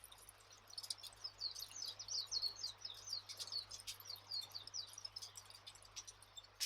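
Wood fire crackling with scattered sharp pops, while a bird sings a quick run of short, high chirps from about one to five seconds in.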